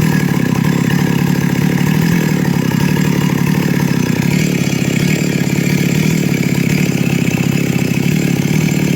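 Stihl MS 382 chainsaw's two-stroke engine running steadily at a constant speed.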